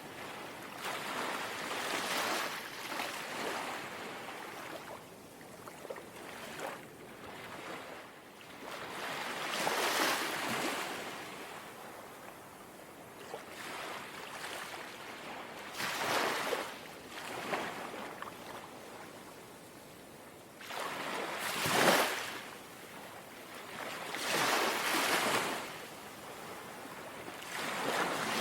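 Gentle sea waves lapping and washing ashore, the hiss of water swelling and falling back every few seconds, with a sharper wave breaking about 22 seconds in.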